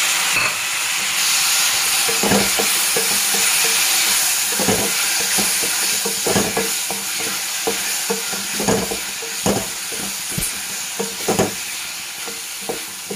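Chopped tomatoes sizzling in hot oil with fried onions and spices in a nonstick kadhai, while a wooden spatula stirs and scrapes the pan with irregular knocks. The sizzle gradually eases.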